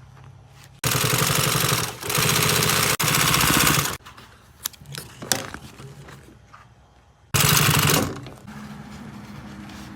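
Upholstery sewing machine stitching in short, fast bursts of rapid rattling: three runs close together from about a second in, then a shorter run near the end, with light clicks between them.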